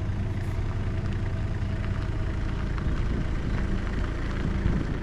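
A vehicle engine running steadily, a low even hum with a noisy haze over it.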